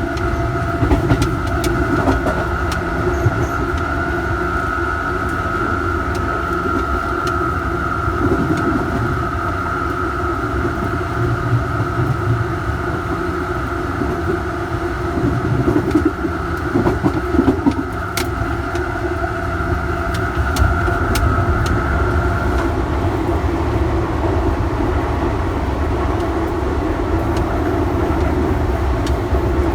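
Electric commuter train heard from on board while running, with a steady rumble from the running gear and a steady high whine from the traction equipment. The whine stops about 22 seconds in, while the rumble continues.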